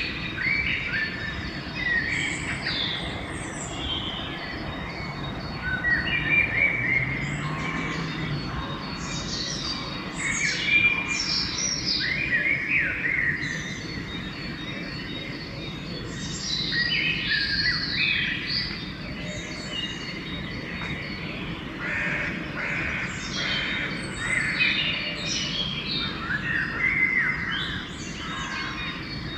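Dawn chorus: several songbirds singing and chirping over one another in overlapping short phrases, over a steady low background noise.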